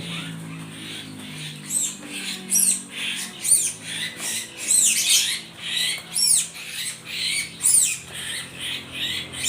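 Small birds calling with repeated sharp chirps, each a quick high note sweeping downward, about two a second, starting about a second and a half in.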